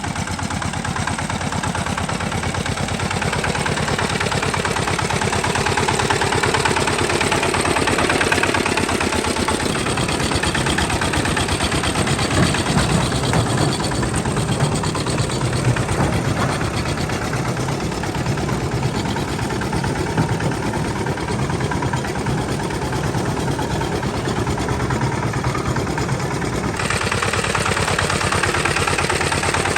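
Tractor engine running steadily with a rapid, even firing beat; the sound changes abruptly about three seconds before the end.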